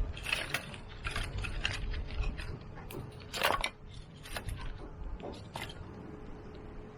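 Irregular clicks and knocks of gear and wood being handled at a small outdoor fire, the loudest knock about halfway through, thinning out towards the end. Wind rumbles on the microphone underneath.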